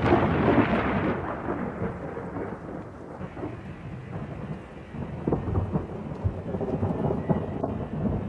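Thunder rumbling after a crash, loudest at the start and fading over the first couple of seconds into lower rolling rumbles, with steady rain falling.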